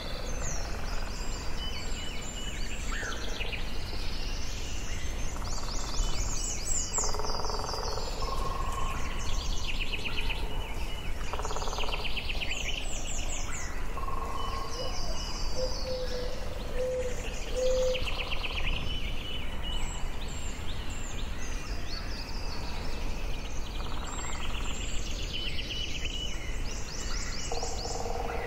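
Forest ambience: several songbirds singing and calling, with repeated short trills and chirps and a few lower whistled notes, over a steady low background hiss.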